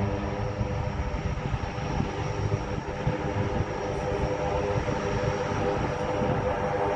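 Aircraft engines running steadily, a continuous drone with a thin high whine over it.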